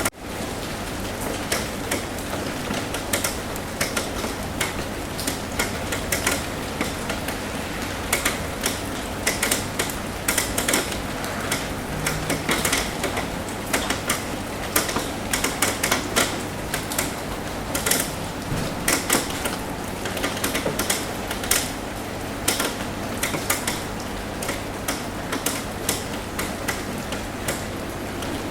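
Rain falling steadily on a roof: a constant hiss with many irregular sharp taps of drops hitting, which come thickest through the middle.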